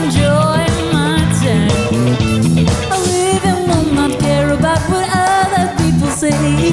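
Funk rock band playing live: steady bass notes and drums under a bending melodic lead line.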